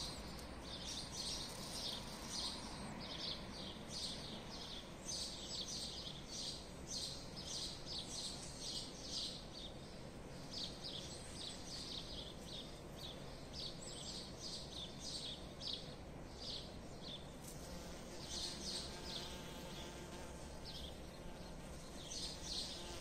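Small birds chirping in quick, irregular runs of short high notes, with brief pauses, over a steady low background hum.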